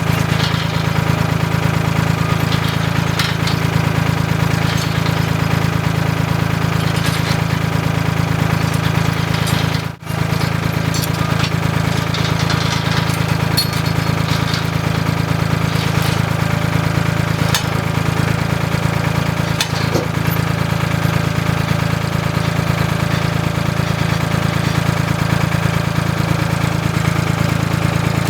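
Ford 3000 tractor engine running steadily at a low, even speed, with faint scattered clanks over it; the sound drops out for an instant about ten seconds in.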